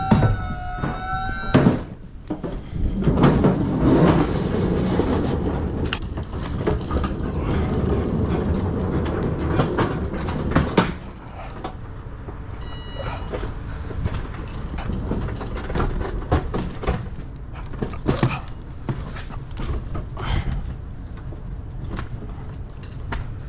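A loaded hand truck rolling and rattling, with scattered knocks and clicks, after a steady electronic tone with overtones cuts off about two seconds in.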